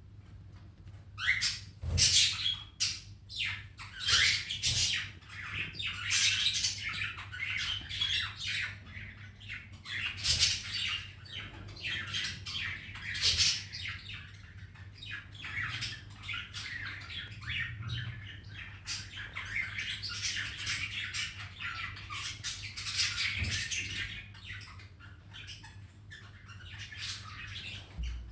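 Baby cockatiel making a long run of repeated raspy squawking calls, starting about a second in.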